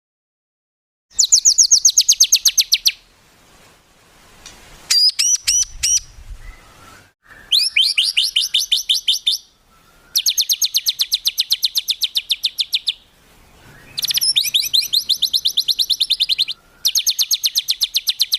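A songbird singing fast rapid-fire trills, the 'tembakan' phrases of a masteran recording: runs of about a dozen sharp repeated notes a second, each run lasting two to three seconds, separated by short pauses, with a brief burst of sweeping notes midway.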